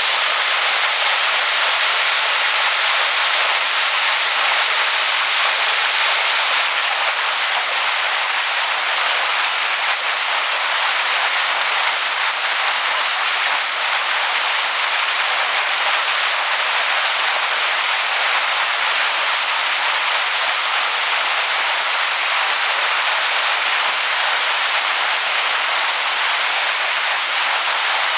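Waterfall pouring onto stones: a steady, even rush of water, mostly hiss with very little low rumble.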